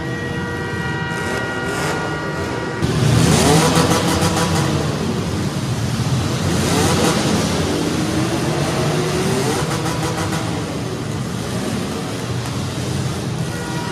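Demolition derby compact cars' engines revving hard and rising and falling in pitch, getting suddenly loud about three seconds in. A steady horn sounds before that and again near the end.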